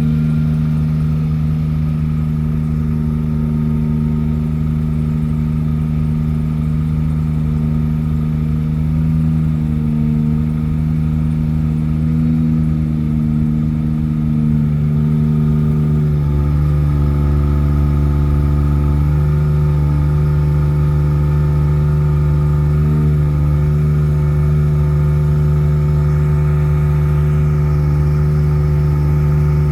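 The 8-litre gas engine of a GMC C7500 truck running steadily, with a change in its note and a heavier low rumble about halfway through.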